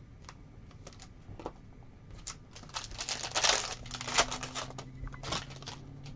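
Trading cards and their packaging being handled at a table: light clicks of cards being flipped, then a dense, louder rustling and crinkling run in the middle with another short burst near the end. A low steady hum comes in about four seconds in.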